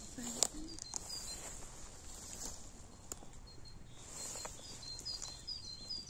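Faint outdoor ambience with a small bird chirping in short, high notes, several in quick runs, mostly in the second half, and a few light ticks.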